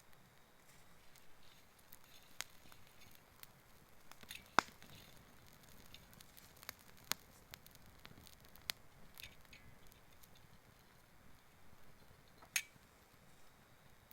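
Small campfire of fallen forest branches crackling softly, with scattered sharp pops, two of them louder, about four and a half seconds in and near the end.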